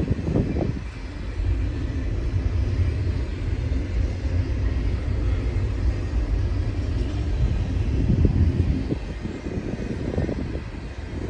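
Intermodal freight train rolling past with a steady low rumble. Irregular clanks and wheel knocks come right at the start and again from about eight seconds in.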